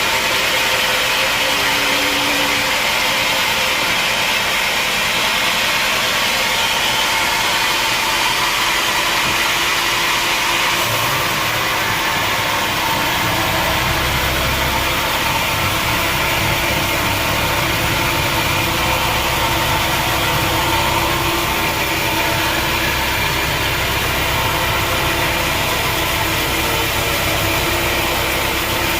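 Sawmill machinery running steadily with a loud mechanical din. About eleven seconds in, the sound shifts and a deeper rumble comes in.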